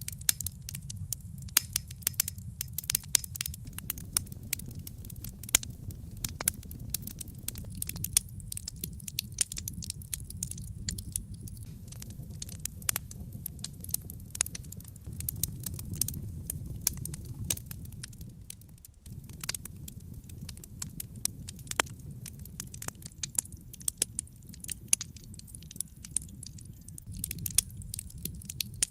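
Wood fire burning in a fireplace: dense, irregular crackles and pops over a low steady rumble, which drops briefly about two-thirds of the way through.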